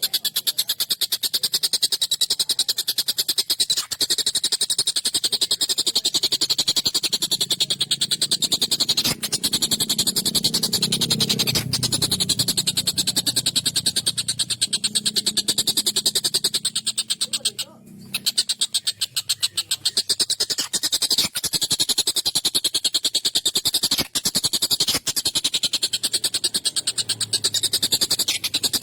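Collared kingfisher (tengkek buto) calling in a long, rapid, harsh chatter of repeated notes, breaking off briefly about eighteen seconds in.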